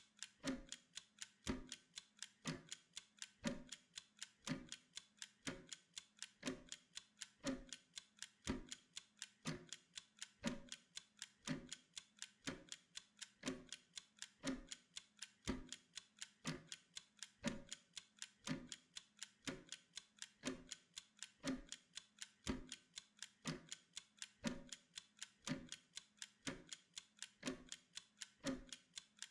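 Mechanical kitchen timer ticking steadily as it counts down a Pomodoro work interval: fast, even, faint ticks with a heavier tick about once a second.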